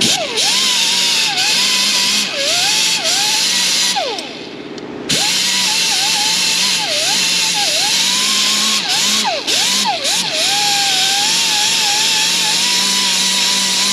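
Small air-powered cleaning grinder whining at high speed, its pitch dipping again and again as it bears down on the exhaust manifold mounting surfaces of the cylinder head, over a steady air hiss. It stops about four seconds in, then starts again a second later and runs on.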